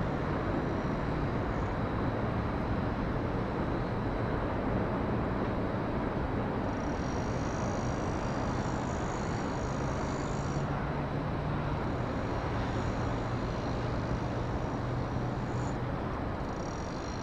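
Steady outdoor rumble of jet aircraft and road traffic around an airport, with a faint high whine from about seven seconds in that drops away a few seconds later and returns near the end.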